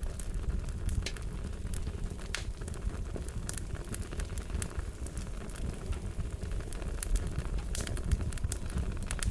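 Wood fire crackling: a steady low rumble of flames with irregular sharp pops and snaps scattered throughout.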